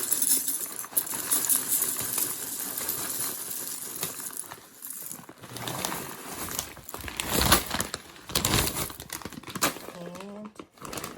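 Dry breakfast cereal poured into a bowl: many small pieces rattling and clinking, with a few heavier spills about seven to nine seconds in.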